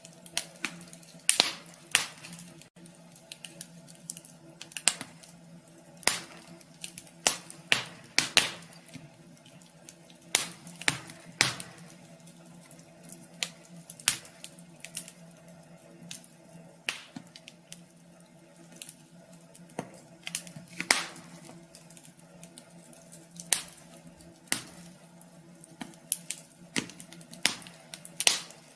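Wood fire crackling in a wood stove: irregular sharp pops and snaps, a few a second, some much louder than others, over a steady low hum.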